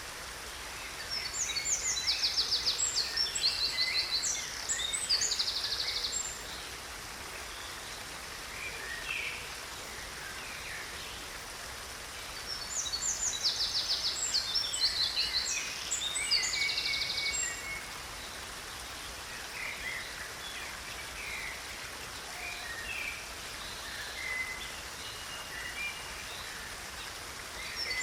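Stream water running steadily, with songbirds singing over it. Two long bouts of rapid, trilling song phrases come about a second in and again around twelve seconds in, with scattered short chirps between.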